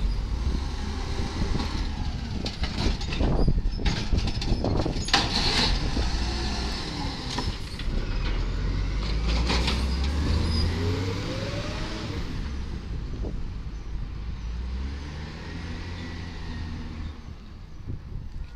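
Volvo garbage truck's diesel engine running, with several sharp air hisses and knocks in the first half and again about halfway through, and the engine revving up about two-thirds of the way in.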